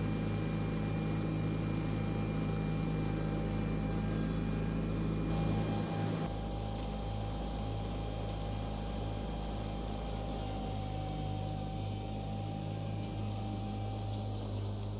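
John Deere 318 lawn tractor running steadily while mulching leaves, with a steady engine hum and a thin whine over it. A higher rushing noise drops away suddenly about six seconds in, and the engine hum carries on.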